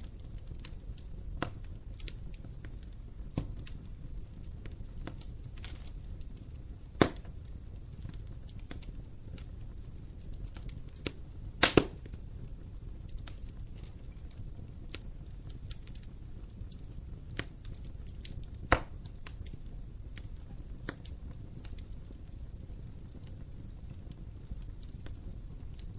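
Wood fire burning in a fireplace: a steady low rumble of flames under scattered crackles and pops. The loudest are a sharp pop about seven seconds in, a quick double pop near the middle, and another pop about three-quarters of the way through.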